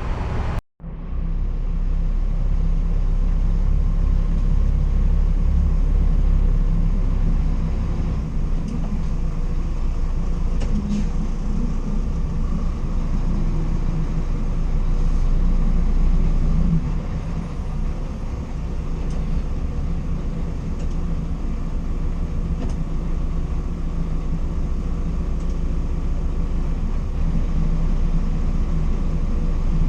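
Scania vacuum truck's diesel engine running steadily under way, a low drone with road noise. A brief cut to silence comes under a second in.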